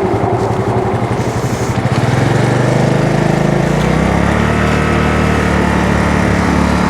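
Honda Navi's small single-cylinder engine running while being ridden. Its note picks up about two seconds in and holds a steady drone from about four seconds on.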